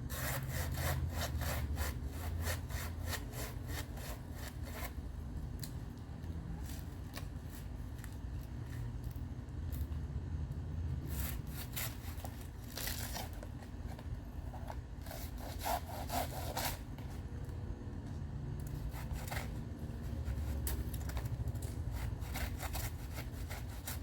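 Handsaw cutting through a bird of paradise trunk: runs of quick back-and-forth strokes, about three a second, broken by short pauses.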